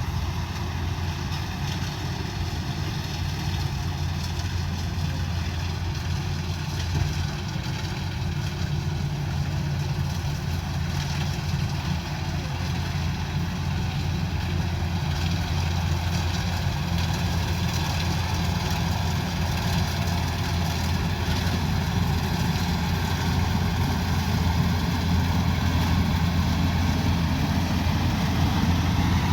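Rice combine harvester's engine running steadily, a continuous low drone with the even noise of the machinery over it.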